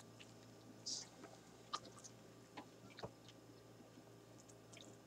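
Near silence, with a handful of faint mouth clicks and smacks from a man chewing a bite of burger.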